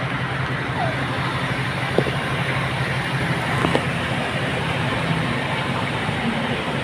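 Street traffic: vehicle engines running with a steady hum under a constant wash of noise, with a few faint clicks.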